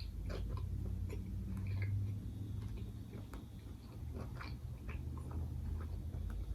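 Close-miked chewing of a sandwich: scattered wet mouth clicks and soft crunches all through, over a steady low hum.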